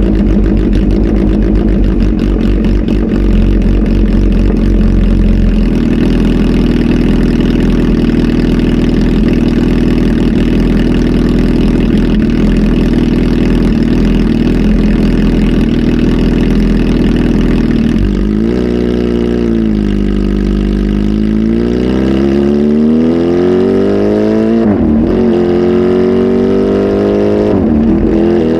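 Kawasaki ZH2 SE's supercharged inline-four, flash-tuned and breathing through a full aftermarket exhaust, running steadily and loud. Later the engine note dips, then climbs, falls sharply twice, and climbs again each time, like a bike pulling through upshifts.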